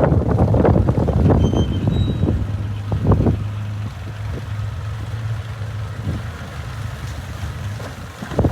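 Heavy diesel engine of earthmoving machinery running steadily, with wind buffeting the microphone. It is louder for the first few seconds, then eases to a lower, steadier hum.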